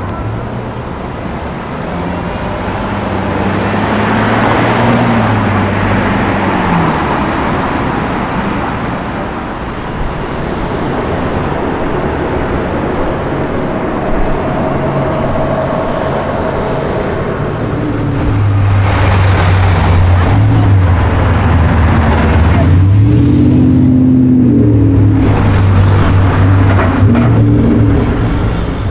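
High-performance car engines on a city street with traffic. About four seconds in, an engine note rises and then falls away. From about eighteen seconds, a louder engine revs up and down repeatedly; this is the loudest part.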